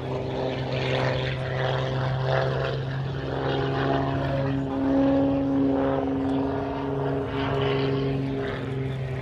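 Propeller aircraft engine running, a steady droning hum with overtones that shifts slightly in pitch about halfway through.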